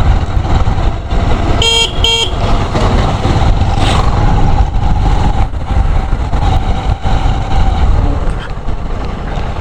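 Steady low rumble of a motorcycle ride, with a vehicle horn giving two short toots about two seconds in.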